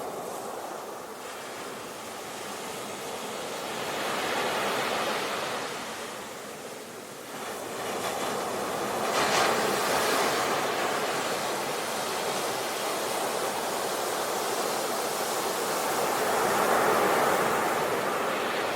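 Ocean waves surging and washing on a shore, rising and falling slowly, with bigger swells about four, nine and seventeen seconds in.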